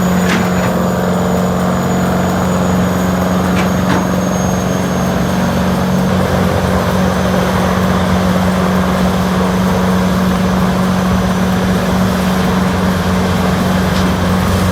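CBI 6800BT horizontal grinder running loud and steady under load, its big diesel engine holding a constant drone while the rotor grinds up a palm tree trunk. A few sharp cracks come through near the start, about 4 seconds in, and near the end.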